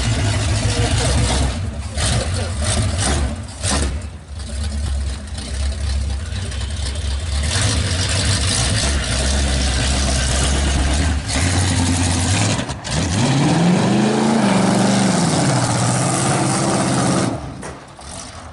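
Oldsmobile bomber race car's engine running, with one rev that rises and falls about two-thirds of the way through, and the sound dropping off near the end.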